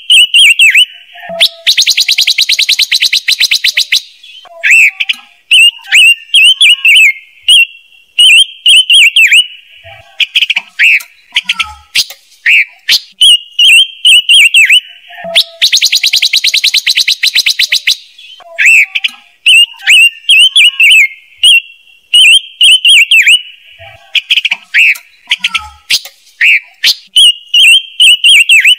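Recorded lure call of the bird the Vietnamese call ngũ sắc, made for bird-trap speakers: runs of high squeaky chirps broken by a fast, buzzy trill lasting about two seconds. The whole sequence repeats as a loop about every fourteen seconds.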